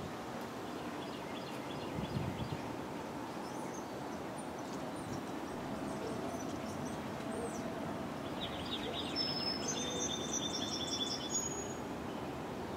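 Steady low outdoor background rumble, with a songbird singing rapid, repeated high trills for a few seconds in the second half.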